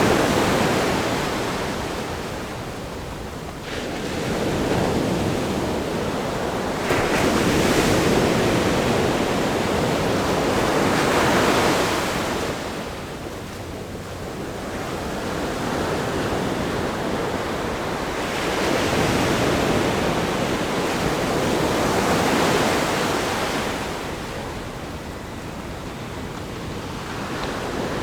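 Ocean waves breaking on a rock groin and washing back, a steady rush of surf that swells and ebbs, with about five surges: loudest near 7 to 12 seconds in.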